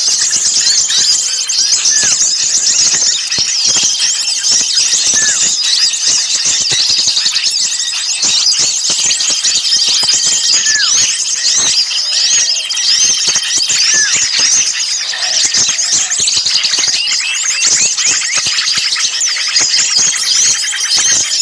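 Many small songbirds calling at once in a dense, agitated chorus of high chirps, trills and squeaks, with a thin held whistle that comes back every few seconds. This is a bird-lure call mix of excited small birds, meant to pull other birds in.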